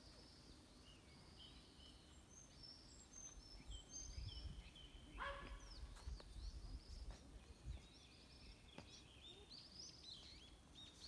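Faint songbirds chirping and trilling in the trees, many short high calls one after another, with one louder call about five seconds in. A low rumble runs under the middle of it.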